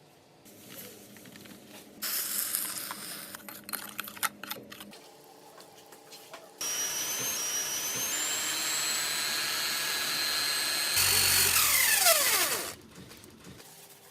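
Electric drill spinning a makeshift cotton candy maker: its whine climbs as it speeds up, then falls away as it slows and stops. Before the drill starts, about two seconds in, there are a few seconds of hiss and rattling.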